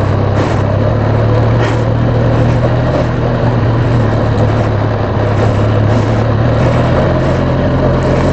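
Motorcycle engine running at steady, low revs as the bike creeps along, a constant low hum that does not rise or fall.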